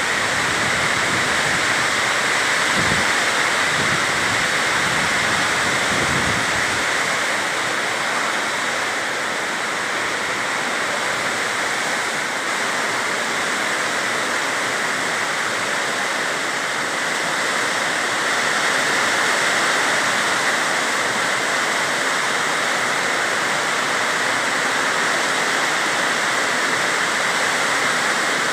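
Heavy rain pouring down in a steady, dense hiss. A few low gusts of wind rumble on the microphone a few seconds in.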